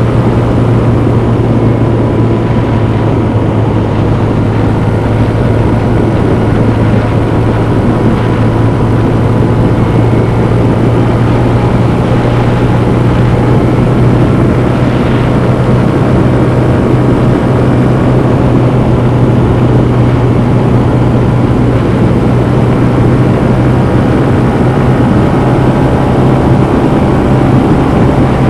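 Honda CB125F's 125cc air-cooled single-cylinder engine running under way, heard from on board the moving motorcycle. The engine note holds a steady pitch throughout, at a constant speed with no gear changes.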